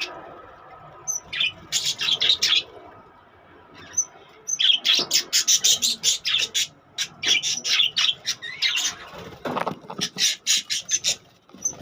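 Caged budgerigars chattering in spells of rapid, short, high-pitched chirps and squawks, with brief pauses between the spells.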